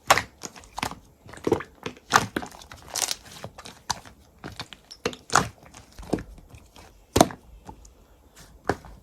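Slime being pressed and worked by hand, giving irregular crackling pops and crinkles, the sharpest about seven seconds in.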